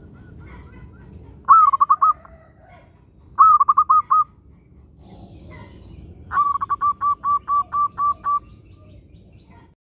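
Zebra dove (perkutut) cooing in three phrases of quick, evenly spaced notes: two short runs of about five notes, then a longer run of about ten. A steady low background noise runs underneath.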